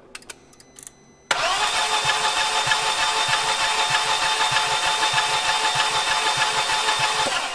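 A few light clicks, then about a second in the 1.8-litre turbo four-cylinder engine is cranked over by its starter motor for about six seconds during a compression test. The cranking has an even pulse under a steady starter whine, with no sign of the engine catching; the test found little or no compression in the cylinders.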